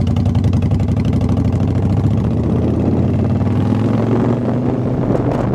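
Motorcycle engine running steadily at road speed, a low drone with an even rapid pulse.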